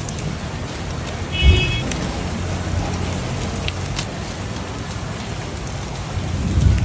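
Steady rain falling, with a low rumble underneath. About a second and a half in there is a thump together with a short high squeak.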